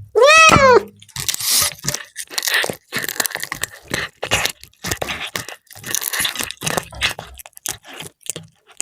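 A cat gives one short meow that rises and falls, then chews fried milkfish with irregular wet crunching and tearing of the crisp fried fish.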